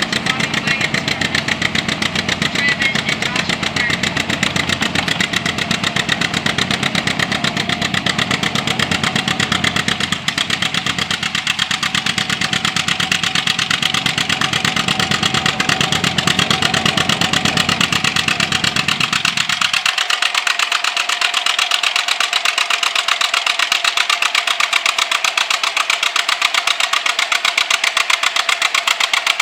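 Tractor engine running steadily, with a fast, even pulse of firing strokes. Its deep low end drops away abruptly about twenty seconds in while the loudness holds.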